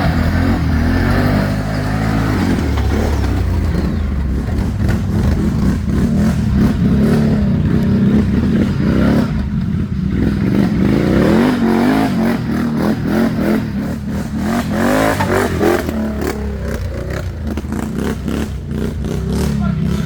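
ATV engine running and revving unevenly as it works over rough ground, with clattering and knocks near the end.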